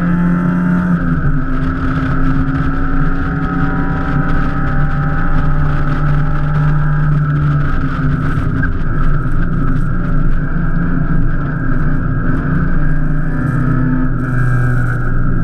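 Open-top sports car's engine running hard on track, heard from inside the open cockpit; its pitch shifts several times as the revs change.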